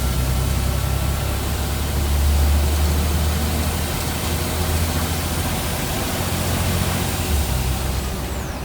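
Scania N94UB bus's 9-litre five-cylinder diesel engine running with a steady low drone under a broad hiss, growing louder for a moment about two seconds in.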